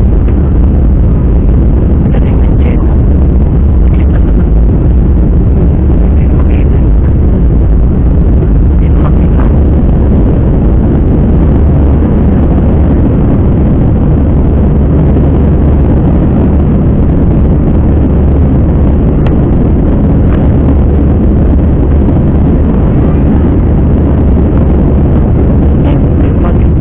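Steady, loud rumble of a jet airliner's engines and airflow heard inside the cabin, with no change in pitch or level.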